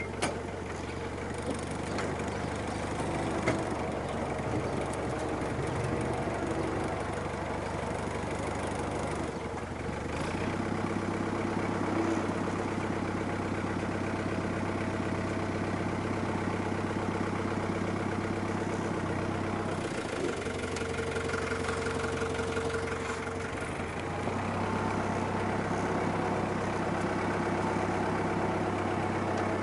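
Farm tractor engine running steadily, its note shifting about a third of the way in and again around two-thirds of the way through.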